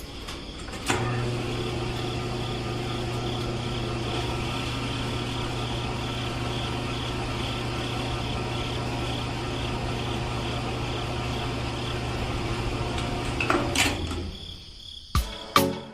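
Small electric motor of a miniature model running steadily with a low hum and a faint high whine, switched on about a second in and cutting off near the end.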